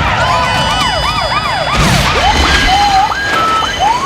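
Emergency vehicle sirens wailing in quick rising-and-falling sweeps, about three a second, turning to slower, irregular glides about halfway through, over a low vehicle rumble.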